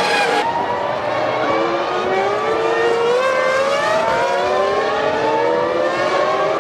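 Several 2000 Formula One cars' V10 engines accelerating together, their high-pitched notes climbing steadily over several seconds.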